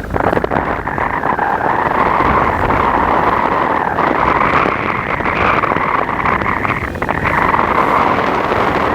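Steady wind buffeting the microphone on the upper deck of a whirlpool sightseeing boat, over the rush of churning sea water.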